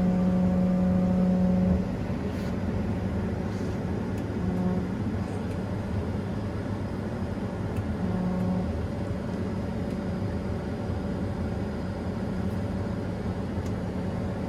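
Combine harvester running steadily, a continuous engine hum, a little louder for the first couple of seconds.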